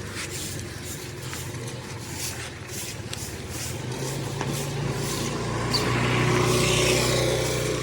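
A motor vehicle's engine running and drawing closer, growing louder through the middle and loudest about six to seven seconds in, then easing off near the end.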